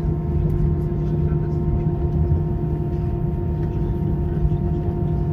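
Steady drone inside an airliner cabin on the ground before takeoff: a low rumble with a few constant humming tones from the engines and air systems.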